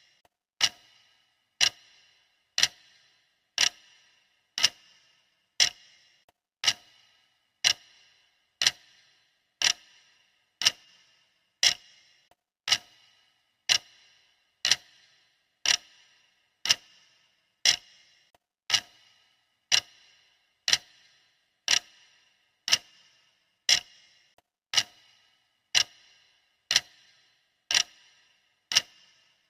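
Clock ticking, one sharp tick each second, steady and even, each tick with a brief metallic ring.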